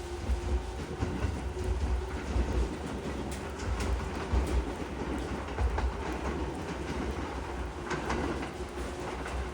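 JR East 209 series electric multiple-unit train moving along the platform: a steady low rumble with wheels clacking over the rail joints.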